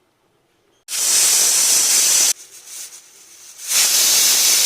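Pressure cooker whistle blowing: two loud hissing blasts of steam with a high, steady whistle note, the first lasting about a second and a half and the second starting near the end. The mutton curry inside is being cooked under pressure and counted by its whistles.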